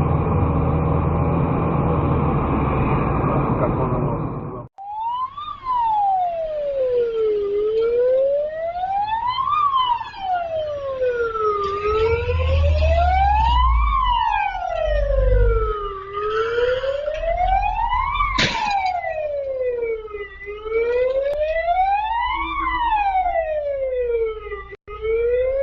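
Steady road and engine noise, cut off about five seconds in. Then an emergency vehicle siren wails, one tone rising and falling slowly about every four seconds, with a sharp click partway through.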